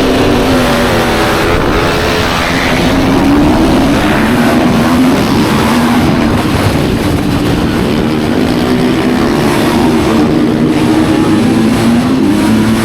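Engine of a studded-tire ice-racing motorcycle running hard under race throttle. Its note rises and falls every few seconds as the throttle opens and closes.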